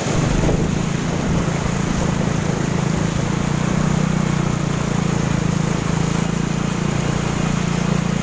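Steady low motor hum mixed with wind noise on the microphone.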